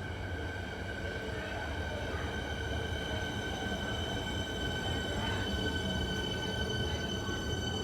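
Melbourne suburban electric train running through a station, with a low rumble under a steady high whine.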